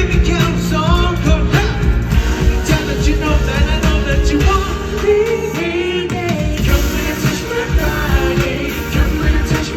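Live pop-rock band playing with a male singer's voice over it.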